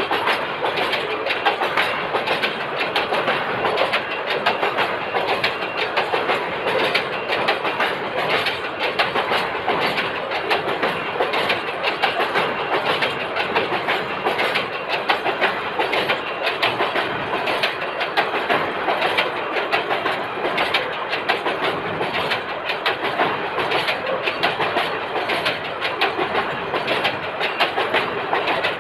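Freight train running, with a steady dense clatter of wheels on the rails.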